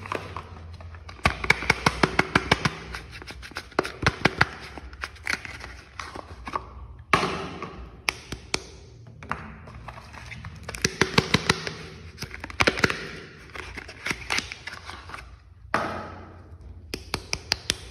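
Soap bars being unpacked: bursts of rapid tapping and clicking on the bars and their packaging, with rustling of the wrappers between the bursts.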